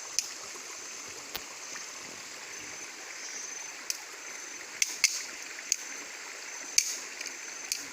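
Small stream running steadily, with several sharp clicks or knocks scattered through.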